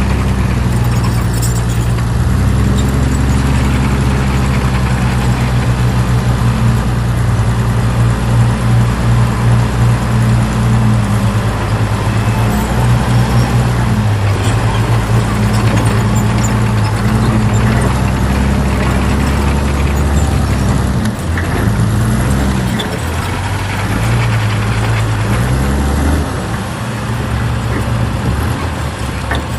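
Heavy diesel engine of earthmoving machinery running hard, a deep steady drone that pulses and wavers in strength and eases off near the end.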